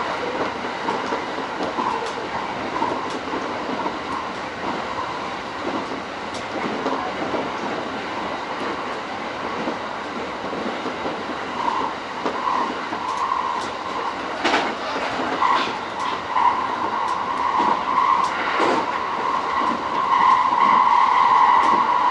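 E231-series electric commuter train running, heard from inside the car: steady rumble of wheels on rail with a few sharp clicks from rail joints. A humming tone swells and becomes loud about two seconds before the end.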